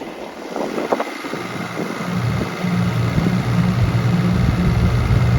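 Boat engine coming in after about a second and growing louder, then running steadily with a low hum.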